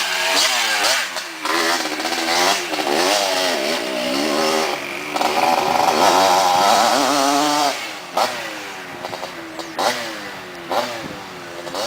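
Yamaha DT180 two-stroke single-cylinder dirt bike engine revving hard, its pitch rising and falling with the throttle and gear changes. About eight seconds in it drops back quieter, with a few short throttle blips.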